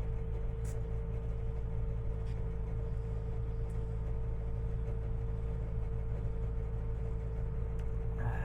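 Sampo Rosenlew SR2065 combine harvester running steadily at half revs while its unloading auger empties the grain tank, a constant low hum with a steady tone above it and a few faint clicks.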